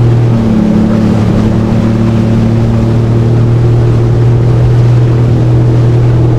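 Jet ski engine running at a steady speed, a constant drone that holds one pitch throughout, with water and wind noise over it.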